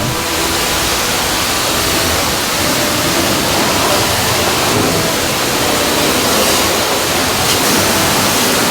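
Pressure-washer spray hitting the truck: a loud, steady hiss of water.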